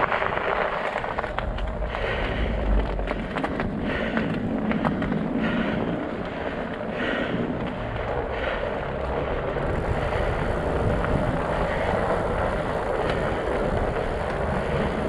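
Fat bike tires rolling over ice and snow: a steady rumbling hiss with many small clicks and crunches.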